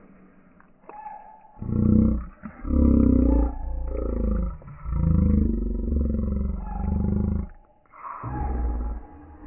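Deep animal roars in several long bouts, rising and falling in pitch, starting about a second and a half in and picking up again near the end.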